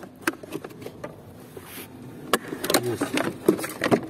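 Rapid sharp plastic clicks and knocks as the snap latches of a Mercedes W124's heater blower motor housing are pried loose, busier in the second half.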